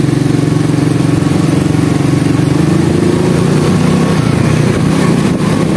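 Small 110cc four-stroke single-cylinder engine of a modified cub-type motorbike running at low speed, heard from the rider's seat. Its pitch rises a little about two seconds in.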